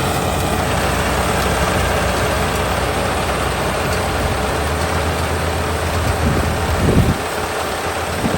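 Kubota ER572 72-horsepower combine harvester running under load, its engine hum under a steady rush of machinery noise. A short loud bump comes about seven seconds in, after which the low engine hum drops away.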